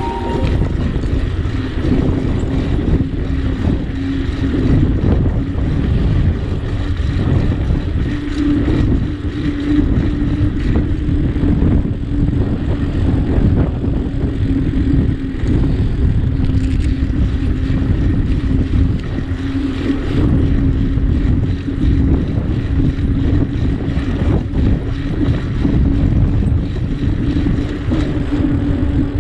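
Wind rushing and buffeting over the microphone during a bicycle ride, with a steady low hum that swells and fades throughout.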